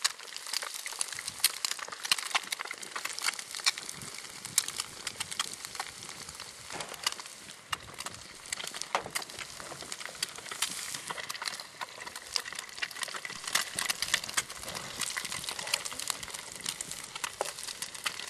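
Eggs frying in bacon grease over a wood fire: continuous sizzling with many sharp, irregular pops and spatters.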